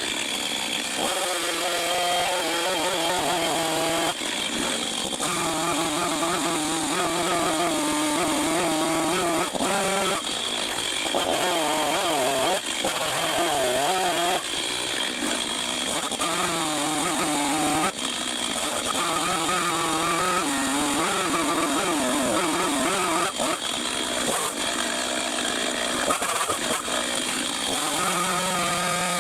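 Chainsaw running under load while bucking rounds from a large log about 20 inches across. The engine pitch keeps rising and falling as it cuts, with a few brief dips.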